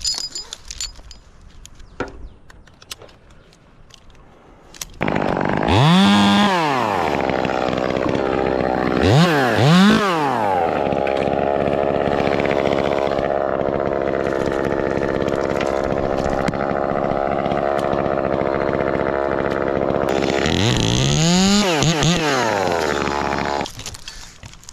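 Ported Echo 2511T two-stroke top-handle chainsaw. A few light clicks come first; the saw comes in about five seconds in and is blipped up and down several times. It runs steadily for about ten seconds, is revved twice more and shuts off near the end.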